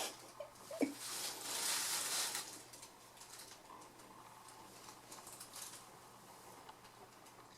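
Cats playing: irregular scrabbling and pattering, with one short squeak about a second in, growing quieter after about three seconds.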